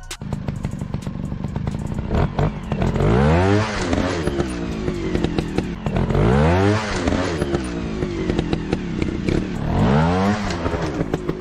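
Dirt bike engine revving up and dropping back three times, each rev rising and falling in pitch over about a second, with scattered clattering clicks throughout.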